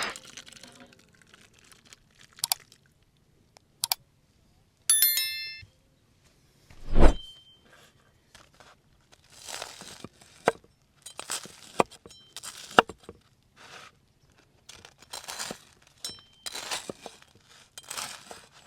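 Handling sounds: scattered clicks and a ringing clink of dishware or metal, a heavy thud about 7 seconds in, then a run of short crunching, rustling noises.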